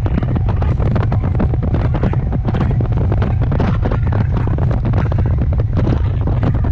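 RER D commuter train running at speed: a loud, steady low rumble with dense, irregular clattering throughout.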